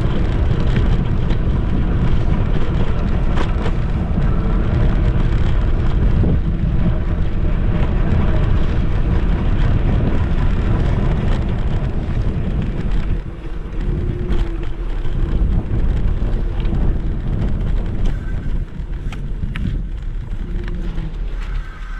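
Wind buffeting the microphone of a handlebar-mounted GoPro while riding an electric scooter: a loud, low rumble that eases a little just past halfway.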